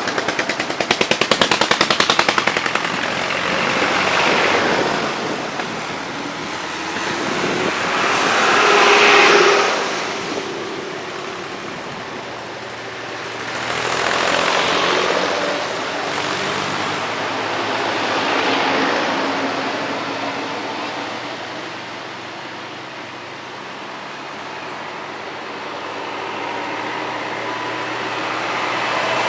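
Old tractor engines driving past one after another, each one swelling and fading. A rapid, even chugging is heard at the start, and the loudest pass comes about nine seconds in.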